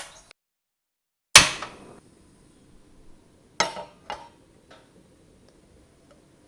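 Kitchen cookware and utensils knocking against each other or a counter: a sharp knock at the start, the loudest about a second in with a short ringing tail, then two smaller knocks a couple of seconds later and a faint one after.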